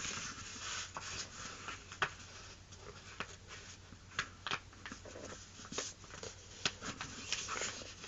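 Sheet of printer paper being folded and creased by hand: light rustling with many short crisp crinkles and taps.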